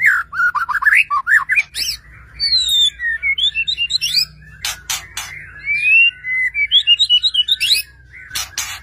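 White-rumped shama (murai batu) singing a fast, varied song of whistled notes that sweep up and down, broken by harsh rasping notes about halfway through and again near the end.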